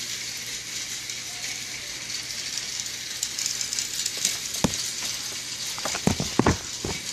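Steady background hiss, with one sharp click past the middle and a quick cluster of clicks and knocks near the end as things are handled.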